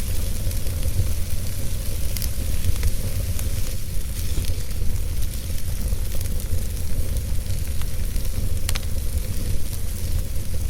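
Wood fire burning in a fireplace: a steady low rumble and hiss with a few scattered sharp crackles and pops, the clearest about nine seconds in.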